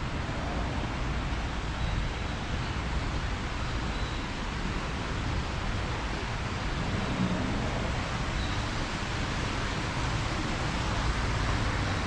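Steady, even vehicle running noise with no distinct events.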